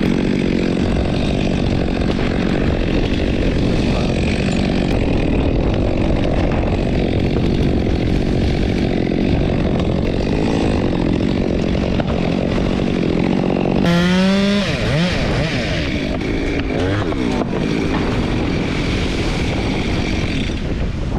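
Chainsaw engine running steadily at a constant pitch, then about two-thirds of the way through briefly revving before its pitch falls away and wavers up and down.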